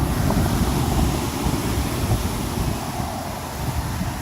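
Wind buffeting the phone's microphone: an uneven low rumble that starts suddenly and gusts up and down.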